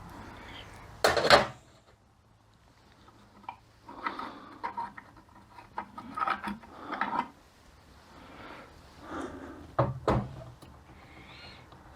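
Transmission parts being handled on a workbench during an overdrive rebuild: a loud half-second noise about a second in, then scattered clicks, knocks and rubbing.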